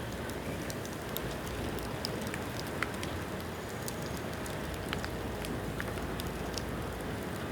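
Bamboo bonfire burning: a steady rush of flames with scattered sharp crackles and pops, one a little louder about three seconds in.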